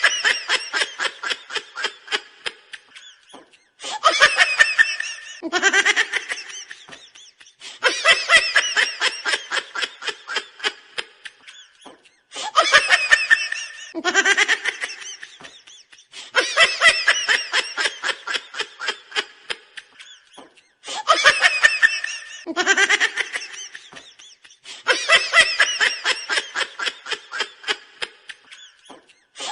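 A high-pitched, giggling laugh sound effect repeating in bouts of a few seconds. Each bout is a fast run of short "ha" pulses that starts loud and trails off, followed by a brief pause before the next.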